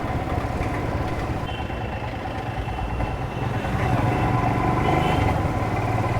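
Motorcycle engine running at low speed in slow traffic. It gets a little louder about four seconds in.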